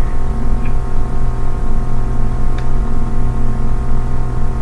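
Steady electrical hum with many constant overtones over a low rumble and hiss. Two faint ticks sound about a second and two and a half seconds in.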